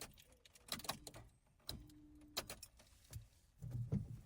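Faint sharp clicks, repeated several times, with two short buzzing hums between them, from a 36-year-old Peugeot 205 GTI as its key and ignition are worked and it fails to start.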